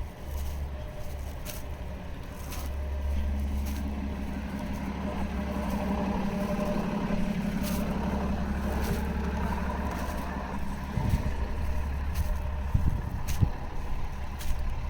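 A motor vehicle's engine running close by on a city street, its low rumble building about two to three seconds in and easing off around ten seconds.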